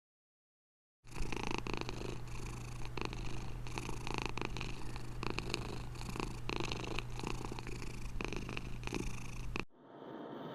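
A cat purring: a steady low hum with a regular pulse. It starts about a second in and stops shortly before the end.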